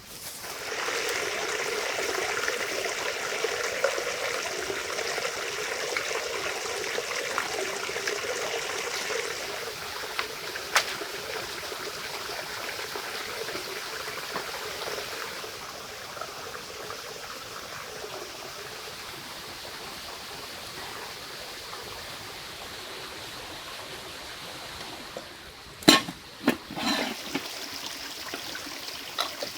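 Running water, a steady stream or trickle that is louder for about the first nine seconds and then settles lower, with a few sharp knocks near the end.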